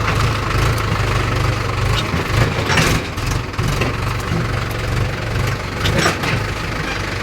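Mahindra tractor's diesel engine running steadily while hauling a loaded trolley of wheat, with a few brief rattles.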